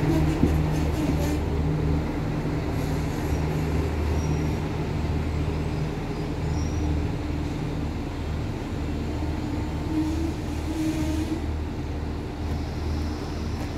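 Irish Rail electric commuter train pulling away and receding down the line, a steady low hum with some lighter noise above it.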